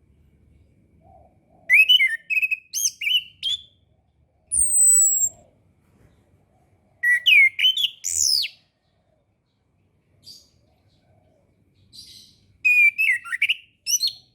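Chestnut-capped thrush (anis kembang) singing: three bursts of quick, varied, sliding phrases with a single clear, high, falling whistle between the first two.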